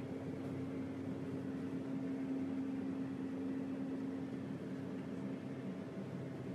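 Steady cabin hum inside a private jet: an even drone with one constant tone over a soft hiss.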